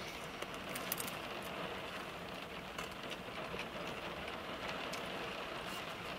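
Rain on the roof of a car, heard from inside the cabin: a steady light patter with scattered small ticks.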